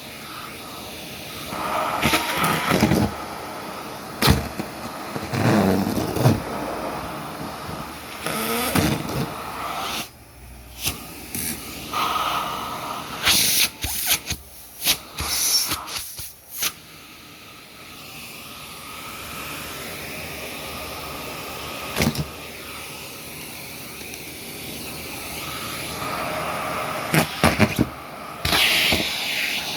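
Vacuum cleaner running, its steady hum broken by irregular knocks and bumps and louder swells of noise as it is worked.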